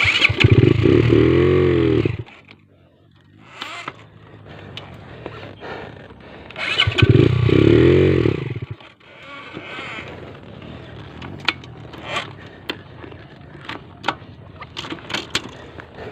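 An engine revved twice, each rev about two seconds long, its pitch rising and then falling, with light clicks and knocks in the quieter stretch after.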